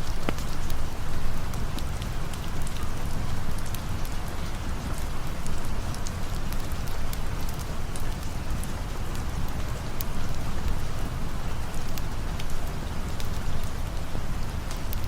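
Steady rainfall ambience: an even wash of rain with many scattered sharp ticks of drops.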